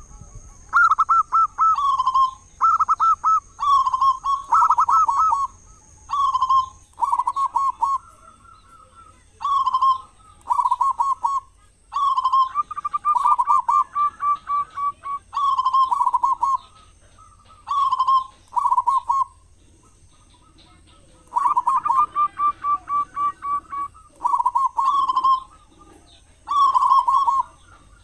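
Zebra dove (perkutut) cooing: short phrases of rapid rolling coos, one after another about a second apart, with a pause of about two seconds partway through.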